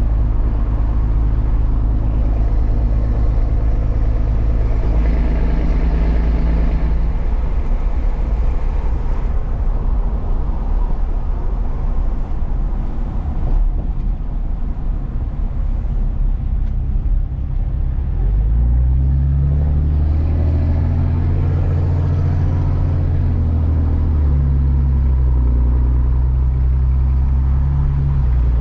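Truck engine and road noise while driving. The engine's pitch steps around five seconds in, fades into plain road hum for several seconds, then climbs from about eighteen seconds in as it accelerates, dropping and rising again twice as it shifts gears.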